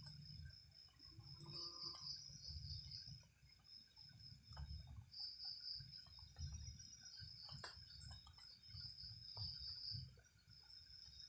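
Crickets or other night insects trilling, a steady high chirping that breaks off briefly and resumes, over a faint low rumble and a few soft ticks.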